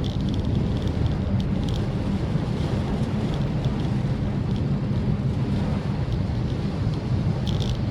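Maruti Suzuki Swift Dzire driving in the rain, heard from inside the cabin: a steady low road-and-engine drone. Occasional light taps of rain sound over it.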